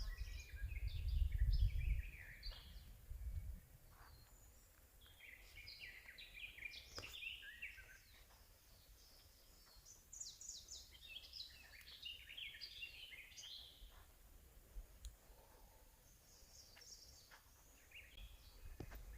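Wild songbirds singing in a forest: a bird repeats a short, tumbling, falling song phrase of about two to three seconds roughly every five seconds. A low rumble sits under the first few seconds.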